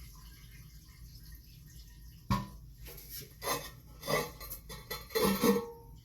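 Hard clinks and knocks of toilet tank parts being handled, about five strikes over the last four seconds, some ringing briefly.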